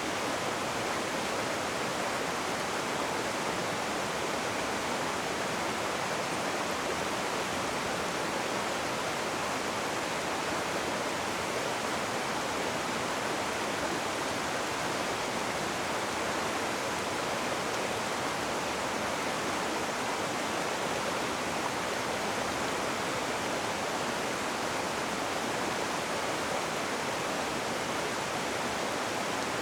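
Rushing river water: a steady, even hiss.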